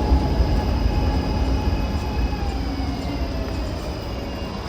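Train running on its rails: a heavy rumble with faint steady whining tones above it, slowly fading as it moves away.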